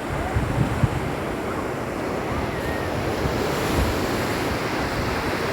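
Sea surf washing onto a beach in a steady hiss, swelling a little after the middle. Wind buffets the microphone in low rumbles throughout.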